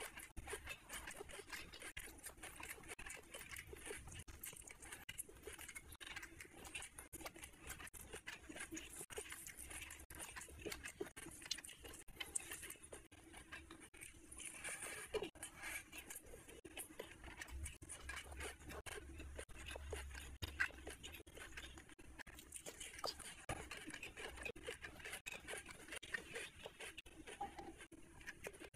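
Close-miked eating sounds of someone eating rice and curry by hand: a continuous run of small wet chewing clicks and lip smacks, with fingers squelching through rice on the plate.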